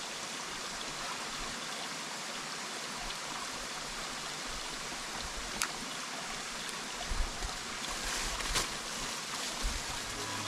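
Small jungle stream flowing steadily, a constant rush of water. In the second half there are a couple of sharp clicks and a few low knocks.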